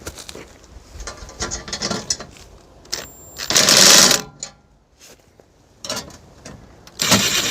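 Power drill driving screws in two short runs, each starting with a thin high whine, the first a little over three seconds in and the second near the end, with some clanks of handling before them.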